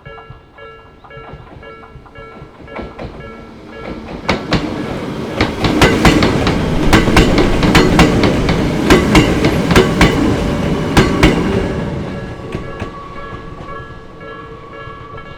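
A Hakone Tozan Railway electric train passing over a level crossing, its wheels clacking over the rail joints, loudest in the middle and fading away near the end. The crossing's warning bell rings throughout.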